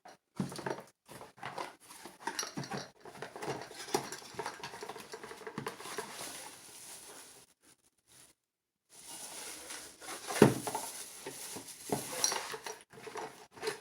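One-litre tumblers being handled and unwrapped: packaging rustling, with light clinks and knocks of the tumblers and one sharper knock about ten and a half seconds in.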